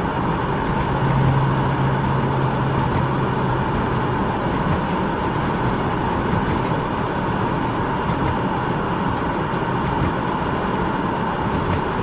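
Steady rush of vehicle road noise mixed with wind in a blizzard, with a low engine hum that comes in about a second in and fades out a few seconds later.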